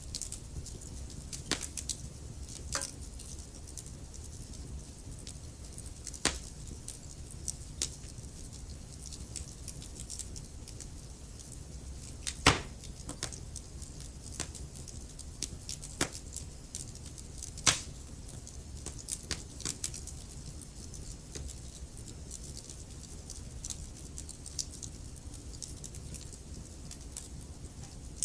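Wood fire burning in a fireplace: a steady low rumble with scattered sharp crackles and pops of burning logs, two louder pops about twelve and eighteen seconds in.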